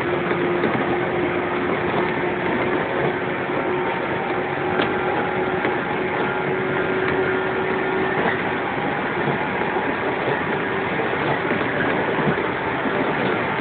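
Interior running sound of a resistance-controlled JR 115-series electric train at speed, heard from the KuMoHa 115 motor car: a steady rumble of wheels on rail with a hum from the motors and gears. A low hum fades about halfway through.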